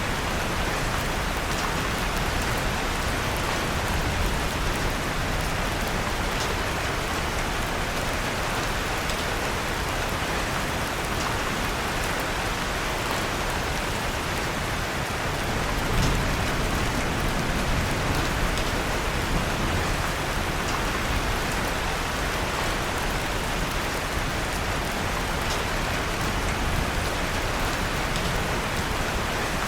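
Steady rain falling on a surface, with a few faint, scattered crackles of a wood fire in a fireplace and a slight swell about halfway through.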